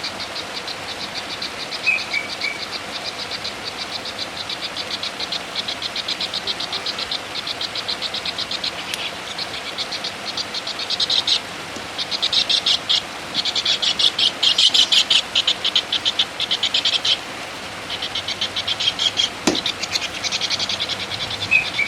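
A rapid, buzzing, insect-like trill of many pulses a second, high-pitched, going on in long runs with brief breaks, loudest in its second half, with a few short chirps over it.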